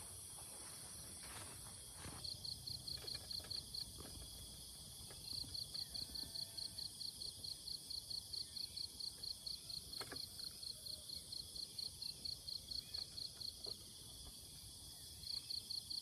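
A cricket chirping in an even, high-pitched pulse of about five chirps a second, in three bouts, over a steady high hiss of other insects.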